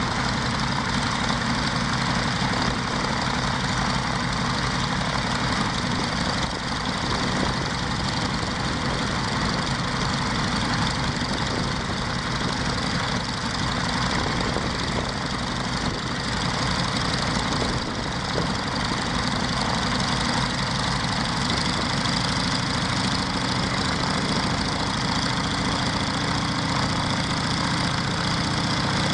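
Scottish Aviation Twin Pioneer's Alvis Leonides nine-cylinder radial piston engine running steadily on a ground run.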